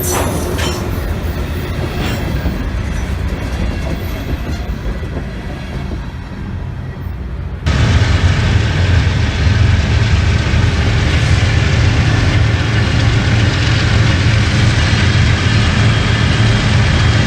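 Railroad cars rolling past with wheel and rail clatter. About halfway through, the sound cuts abruptly to a louder, steady low rumble of diesel locomotive engines.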